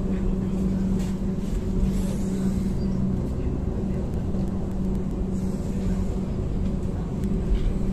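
Ankeng Light Rail tram running, heard from inside the car: a steady low rumble with a constant hum underneath.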